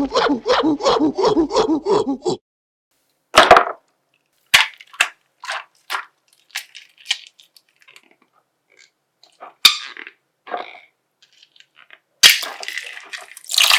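A rapid rhythmic pulsing sound, about six pulses a second, for the first two seconds. Then a series of sharp separate snaps and cracks as a plastic slime bag is popped, and near the end dense crinkling as the plastic bag is torn open.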